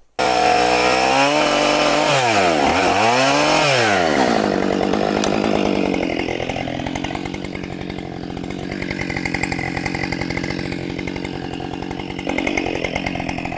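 Husqvarna 572XP two-stroke chainsaw running at high revs while cutting into a log, its engine pitch rising and falling in the first few seconds. About six seconds in it drops to a lower, steadier note.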